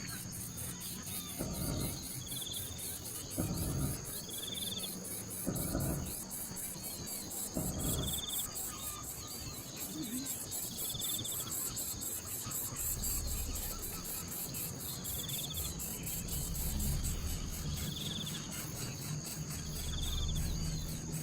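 Outdoor insect chorus: a steady, rapidly pulsing high-pitched trill, with a short call repeating about every two seconds. Low thuds come about every two seconds during the first eight seconds.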